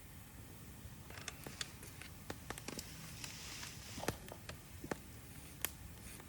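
Wood campfire crackling, with irregular sharp snaps and pops from burning wood and a brief hiss about halfway through.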